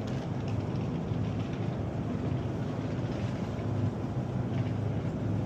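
Steady low mechanical hum over a continuous rumbling background noise.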